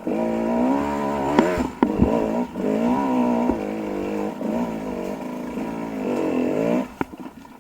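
Dirt bike engine revving up and down repeatedly while being ridden, with a few sharp knocks along the way. The engine sound falls away near the end.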